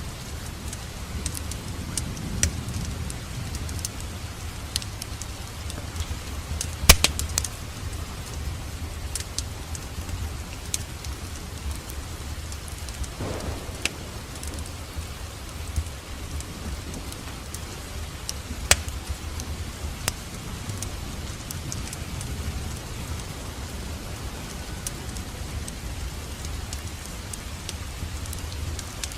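Wood fire crackling in a fireplace: a steady low rumble of the flames with scattered sharp pops and crackles, the loudest pop about seven seconds in and another about nineteen seconds in.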